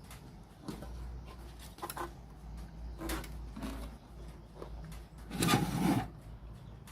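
Handling noises: scattered light knocks and rubbing, with a louder scraping rustle about five and a half seconds in, over a steady low hum.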